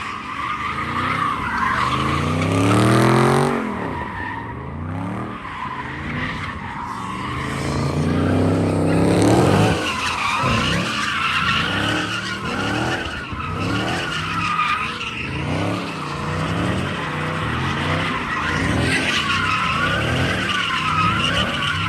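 Car engines revving up and down over and over, the loudest revs about 3 and 9 seconds in, with tires squealing in a wavering whine from about halfway through, as in burnouts and donuts.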